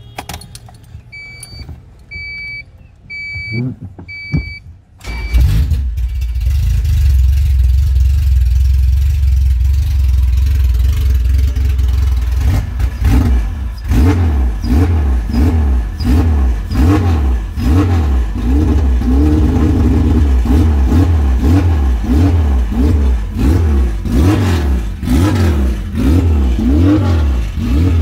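A few short electronic beeps about once a second, then about five seconds in a Honda H23A four-cylinder engine starts and idles. From about twelve seconds on it is blipped repeatedly at the throttle, revving up and falling back roughly once a second. The engine exhausts through a tri-Y header and a 2.5-inch exhaust with no muffler.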